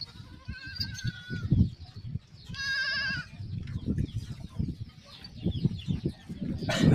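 Goat bleating: a short call about half a second in and a louder, wavering bleat about three seconds in, over shuffling and knocking of hooves and handling.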